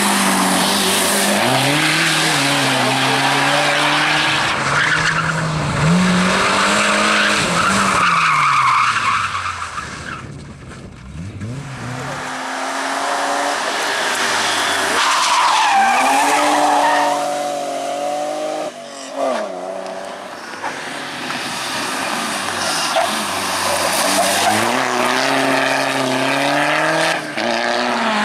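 Rally sprint car engine revving hard, pitch climbing and dropping with throttle and gear changes, with tyres squealing as the car slides through corners. The sound fades briefly about ten seconds in, then builds again.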